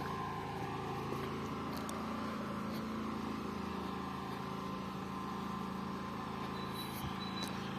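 Steady hum of a car engine as the car rolls slowly along a street.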